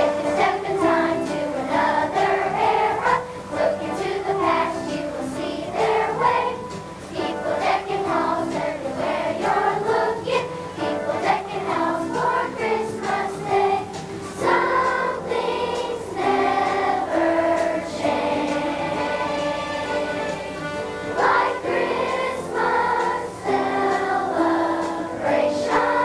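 Elementary school children's choir singing a Christmas program song.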